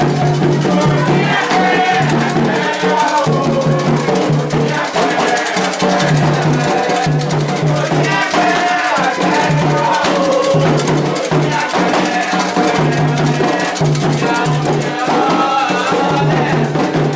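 Candomblé ritual music: voices singing over hand drums and a shaken rattle, the percussion keeping a steady rhythm throughout.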